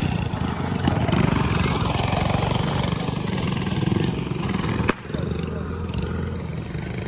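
Small mini bike engines running at the race finish, a steady dense engine noise, with a sharp click about five seconds in.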